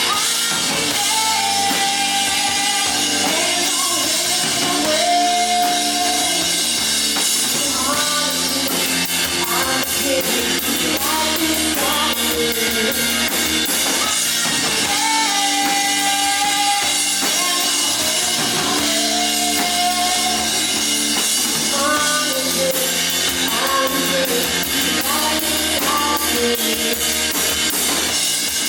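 Live indie rock band playing a loud, steady passage: drum kit and guitars, with a melodic line that repeats about every seven seconds.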